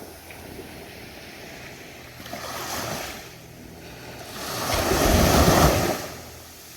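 Ocean waves breaking on a beach, with two rushing surges: a smaller one, then a louder one about five seconds in that washes in and fades. A faint low steady hum runs underneath.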